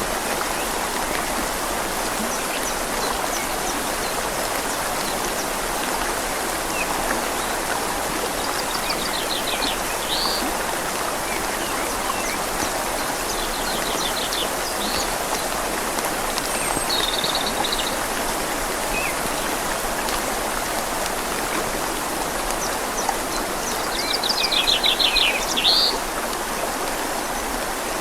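Steady rush of a flowing river with rain falling on leaves. A bird calls in short trilled phrases several times, loudest a few seconds before the end.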